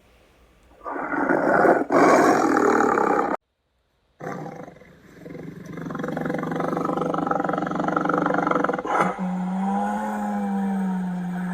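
Big cat roaring: one loud roar starts about a second in and cuts off suddenly, then after a short silence another long roar builds up and holds, ending in a steady pitched moan.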